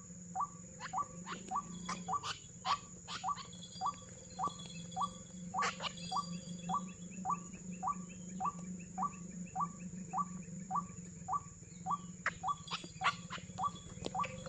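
White-breasted waterhen calls played from a lure recording to draw birds into snares: short upward-hooked 'kwak' notes repeated evenly, about two a second.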